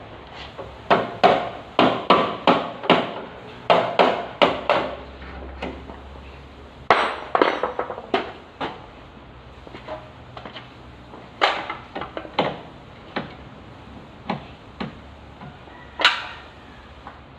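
Hammer blows on car-body sheet metal during collision dent repair. A quick run of sharp metallic strikes, two or three a second, is followed by slower, irregular single blows.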